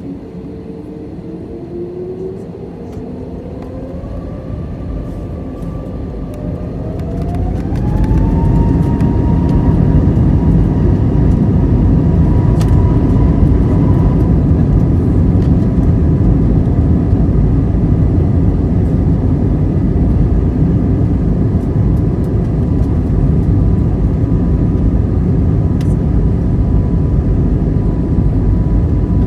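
Airbus A320 jet engines spooling up for takeoff: a whine that rises in pitch and grows louder over the first eight seconds, then settles into a loud, steady takeoff-thrust roar with an even high tone.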